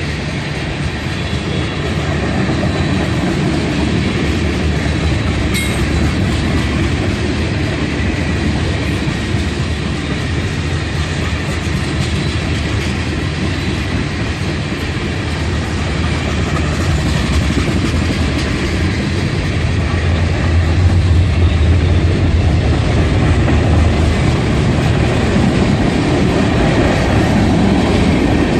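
A train rolling past, its steel wheels clacking over the rails with a steady rumble. The rumble deepens and grows louder about twenty seconds in.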